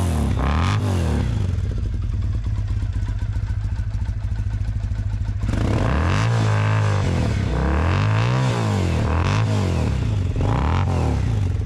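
Motorcycle engine running and being revved up and down again and again, its pitch rising and falling with each blip of the throttle.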